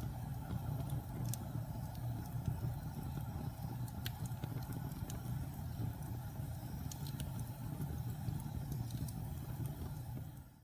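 Wood fire burning in a fireplace: a steady low roar with scattered crackles and pops. The sound fades and cuts out abruptly at the very end.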